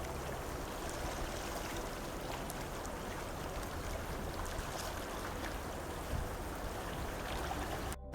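Steady rushing wind noise, wind moving through the forest and rumbling on the microphone. It cuts out abruptly just before the end.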